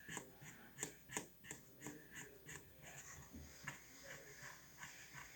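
Faint felt-tip marker strokes scratching on cardboard, about three a second, turning into a steadier scribbling about three seconds in.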